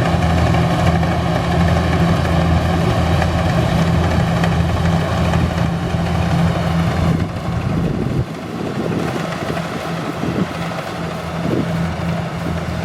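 Kubota combine harvester engine running steadily with a low drone. About eight seconds in, the low part of the sound drops away abruptly and a lighter, noisier machine sound remains.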